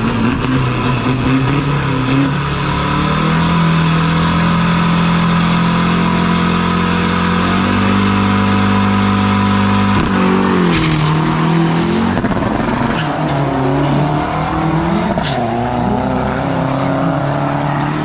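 Turbo-diesel drag-racing truck's engine held at steady high revs on the start line, then launching about ten seconds in. It accelerates away with the engine pitch climbing and dropping several times as the manual gearbox is shifted.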